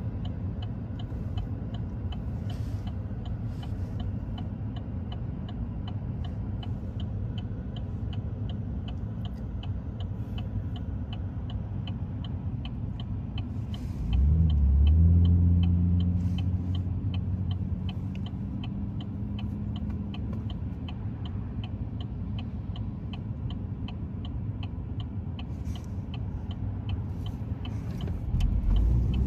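Trains running with a steady rumble and a regular light ticking about three times a second. About halfway through, a louder low hum swells for a couple of seconds and then fades.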